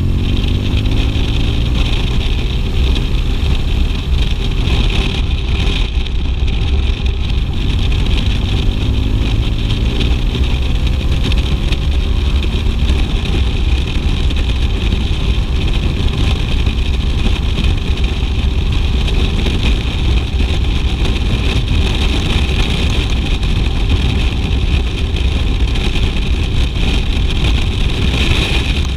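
BMW R 1200 GS boxer-twin engine running under way over a steady low rumble. The engine pitch rises as it accelerates, just at the start and again about a third of the way in.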